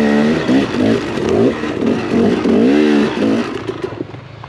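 Dirt bike engine revving up and down over and over as the throttle is worked, easing off near the end.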